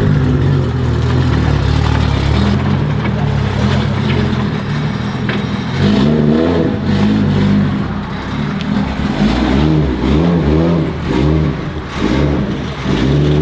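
Car engine running loudly, then revved up and down several times from about six seconds in.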